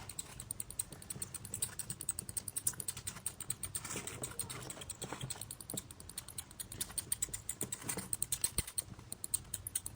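Mouse scurrying sound effect: a fast, continuous run of light scratchy clicks, many a second, with a few louder ticks mixed in.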